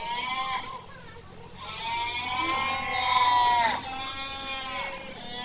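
Livestock bleating: three drawn-out bleats, a short one at the start, a long one of about two seconds in the middle, and a shorter one just after it.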